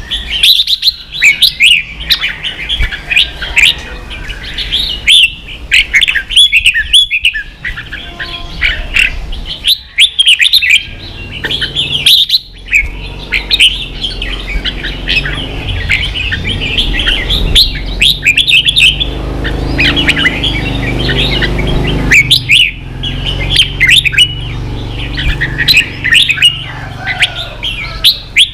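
Red-whiskered bulbuls singing and chattering in fast, dense runs of short high chirps, with brief pauses between bouts. A low background rumble runs under the song through the middle stretch.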